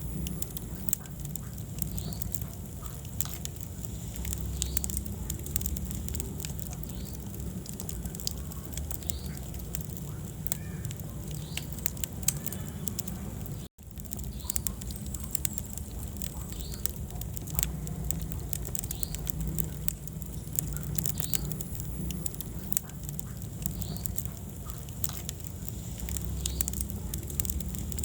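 Wood fire burning in a fireplace: a low steady rumble of flames with frequent sharp crackles and pops. The sound cuts out for an instant about halfway through.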